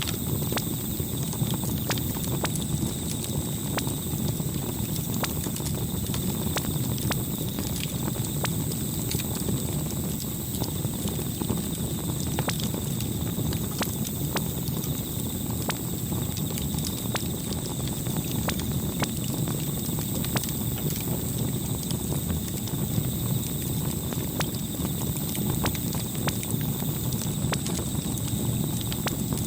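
Campfire burning: a steady low rush of flames with irregular sharp crackles and pops throughout.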